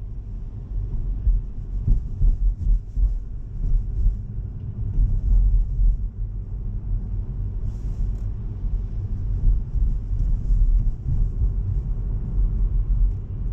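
Low, steady road rumble inside a Tesla's cabin as the electric car drives on rain-wet roads, with faint tyre hiss and a brief louder hiss about eight seconds in.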